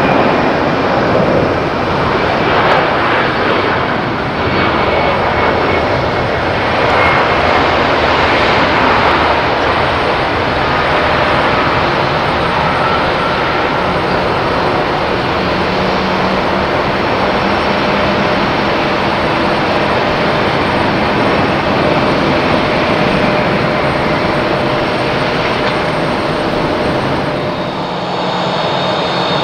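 Jet airliner engines running at an airport: a loud, steady rush of engine noise that dips briefly near the end.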